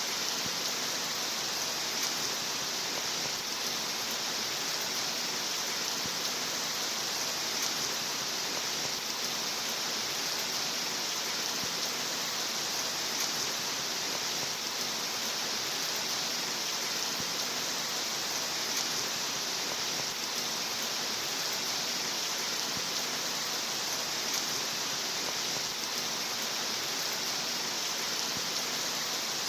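Steady, even rain sound, a continuous hiss with no single drops or gusts standing out.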